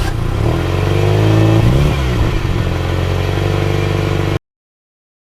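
A motor-vehicle engine running and revving, its pitch dipping and rising again around two seconds in. It cuts off abruptly into silence a little over four seconds in.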